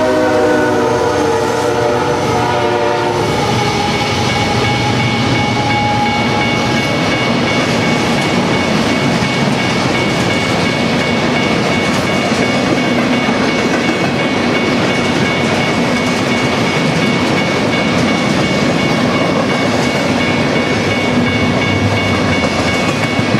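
CSX freight locomotives' horn sounding a chord that ends about three seconds in, followed by a long string of empty intermodal well cars rolling past with steady wheel-on-rail noise and a faint high ring over it.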